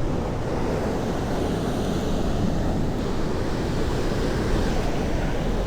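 Sea waves washing against the shore, with wind rumbling on the microphone.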